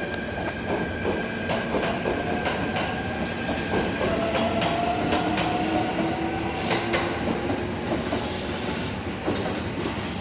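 Electric train running over the rails with repeated clicks from the wheels on rail joints. About four seconds in, a motor whine starts and rises slowly in pitch for a few seconds.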